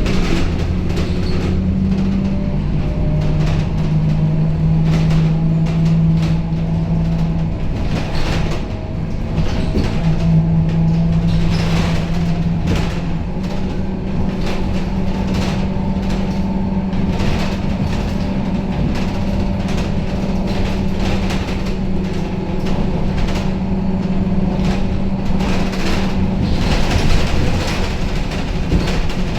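Scania K270UB city bus heard from inside while driving: a steady low drone from the engine and driveline that shifts in pitch a few times as the bus changes speed, with frequent rattles and knocks from the body and fittings over the road.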